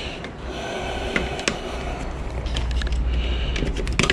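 Scattered light metallic clicks and clinks of autoclave parts and wiring being handled during dismantling, coming more often in the second half, over a steady low rumble.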